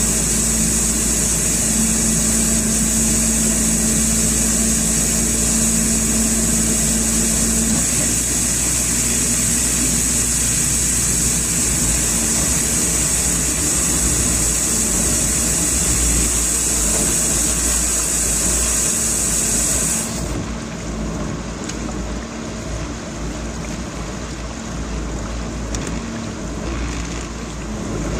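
A dishwasher running, with a steady rush of water and a strong high hiss. About twenty seconds in the hiss cuts off abruptly and a quieter rushing carries on.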